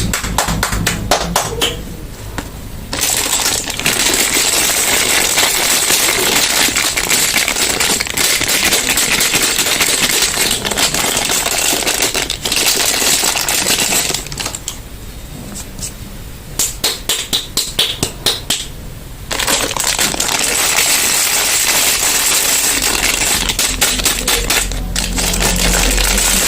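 Soap packaging being crinkled and unwrapped: dense crackling with rapid clicks, broken by a few short pauses.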